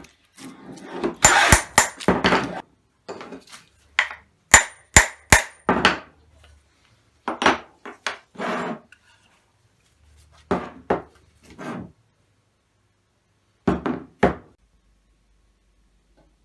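Hand-tool work on a wooden hand plane: short scraping strokes and knocks on wood, with three sharp ringing taps about half a second apart, like a hammer setting the plane's iron and wedge.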